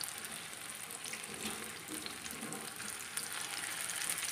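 Mutton mince tikki patties shallow-frying in a couple of spoonfuls of oil over a lowered flame: a steady sizzle with fine crackling.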